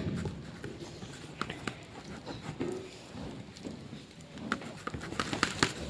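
Glue and shaving-foam slime being mixed just after the activator goes in, with irregular soft clicks as the mixture starts to set.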